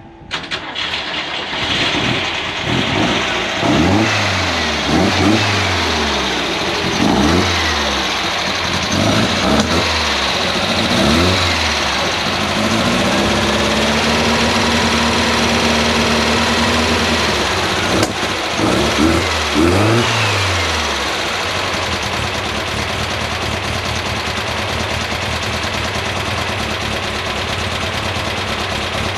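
Air-cooled Volkswagen flat-four engine in a Beetle firing up and being blipped repeatedly, its pitch rising and falling with each rev, then settling into a steady idle for the last several seconds. This is the freshly installed engine running for the first time.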